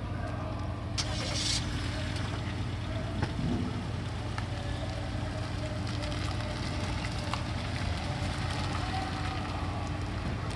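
Steady low engine rumble with a constant hum, and a short hiss about a second and a half in.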